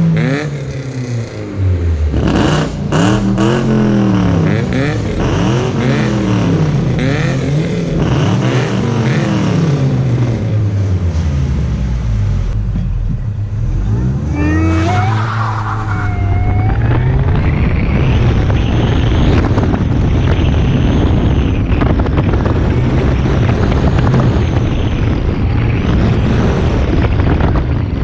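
Supercharged 1.6-litre four-cylinder of a 2006 Mini Cooper S with a custom exhaust, revving hard and dropping off again and again as it accelerates and brakes through an autocross course. About halfway through, the engine note gives way to a loud, steady rush of noise.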